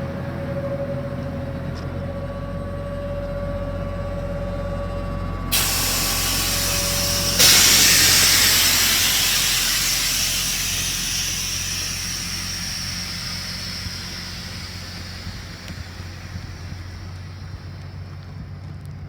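A truck engine idles with a steady thin whine. About five and a half seconds in, a loud rush of escaping air starts suddenly, surges louder about two seconds later, and then slowly fades; the whine stops at the surge.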